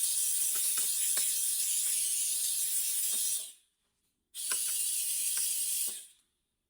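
Steam cleaner jetting steam in a steady hiss that stops about three and a half seconds in and starts again about a second later for another second and a half, with a few light knocks during the hissing.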